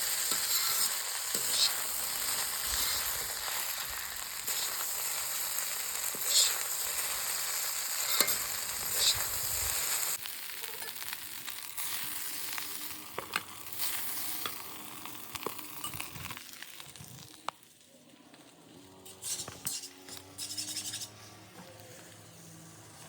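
Food sizzling in a hot pan while being stirred, with sharp knocks of the spatula against the pan. The sizzle is loud for the first ten seconds, then drops abruptly to a softer sizzle. It fades away about three-quarters of the way through, with a few more knocks near the end.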